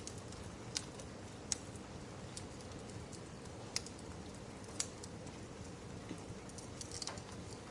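Wood fire crackling, with a handful of sharp pops and a quick run of them near the end, over a steady hiss of rain.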